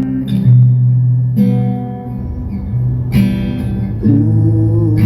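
Acoustic guitar strumming slow chords, four strokes each left to ring: an instrumental break in a song.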